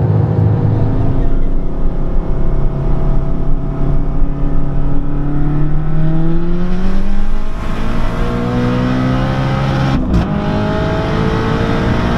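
Car engine pulling hard at full throttle, its pitch rising steadily through one gear, then dropping at a gear change about two-thirds of the way in and climbing again.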